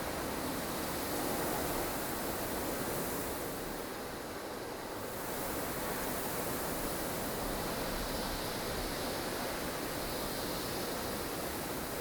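Blustery snowstorm wind: a steady, full rush of noise that eases briefly about four seconds in before building again.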